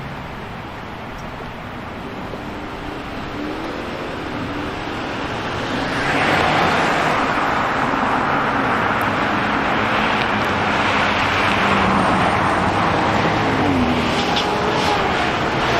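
City street traffic: cars driving past, with tyre and engine noise that grows louder about six seconds in and stays up.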